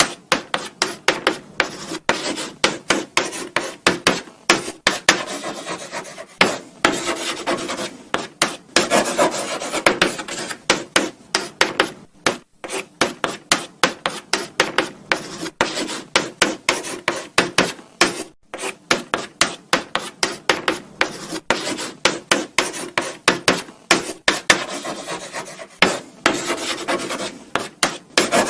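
Chalk writing on a blackboard: quick, scratchy strokes and light taps of the chalk, several a second, with short pauses between runs of strokes.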